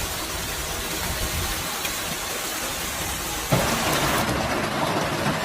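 Steady hiss of heavy rain and hail coming down. About three and a half seconds in it cuts suddenly to a louder, brighter rush.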